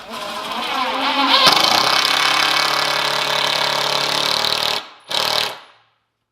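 Power drill driving a deck screw into wood: the motor spins up with a rising whine, runs steady as the screw goes in, stops, then gives one short final burst to seat it.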